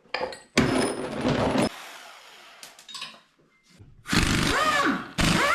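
Handheld power tool, such as a cordless drill or impact driver, run in three short bursts, loosening fasteners. In the last two the motor whine rises, holds and then falls as the trigger is released.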